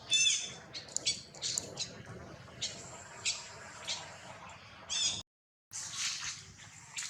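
Baby monkey giving high-pitched squeals: a loud one at the start and another a little before the end, with short squeaks between.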